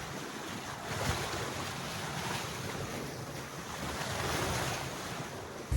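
Sea rushing past a sailing yacht's hull under way, with wind, the wash swelling about a second in and again around four seconds in.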